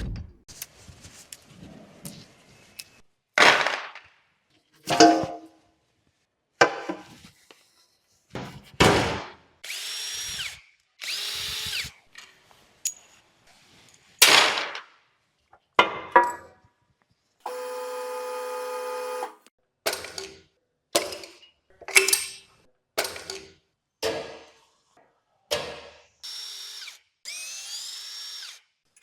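Mechanic's tools at work on an engine: a long series of short bursts of power-tool and clattering sounds, with a steady whine of about two seconds roughly two-thirds of the way through.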